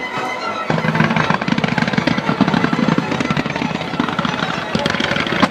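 Music for a fireworks show playing, joined a little under a second in by a dense, rapid volley of firework bangs from a starmine barrage.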